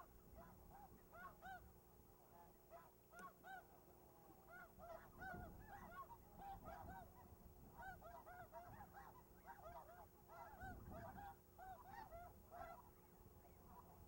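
A large flock of geese honking: many short calls overlapping continuously.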